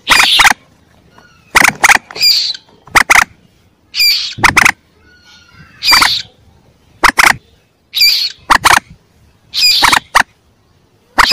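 Young common moorhen calls from a hunter's lure recording: short, loud, squawking calls repeated about once a second, some in quick pairs.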